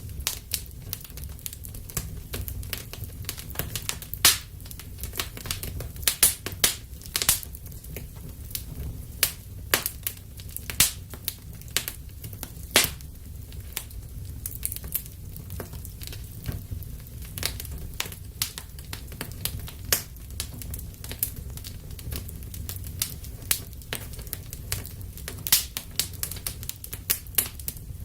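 Wood fire burning in a fireplace, with irregular sharp crackles and pops several times a second over a low steady rumble of the flames.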